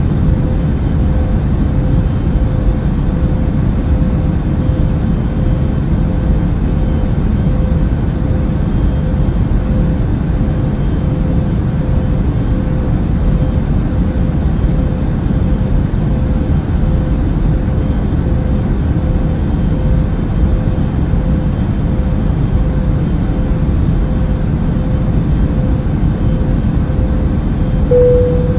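Steady low rumble of an Airbus A380 airliner in cruise flight, with a faint steady hum running under it. The hum briefly grows louder near the end.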